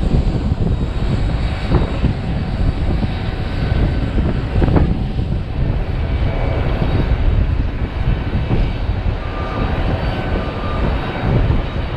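Airliner engines rumbling steadily, with faint whining tones coming in during the second half.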